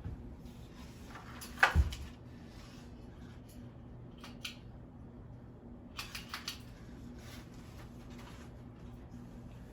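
Emerson Heat Fan K63 ceiling fan with four fiberglass blades coasting down after being switched off from high speed, with a steady low hum under it. A loud double knock comes a little under two seconds in, and a few light clicks around six seconds.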